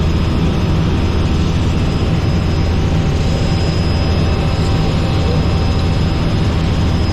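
Robinson R44 helicopter in flight: the steady drone of its piston engine and rotors, with a thin, steady high whine above it.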